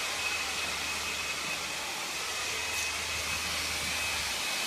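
Handheld hair dryer running steadily, a constant airy rush with a faint high whine.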